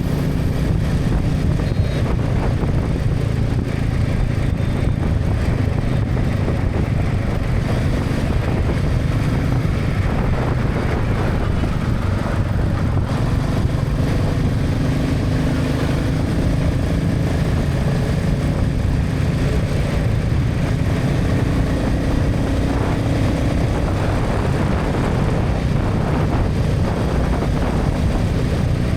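Motorcycle engine running steadily at road speed over a hiss of wind and tyre noise, its pitch drifting up and down a little with the throttle.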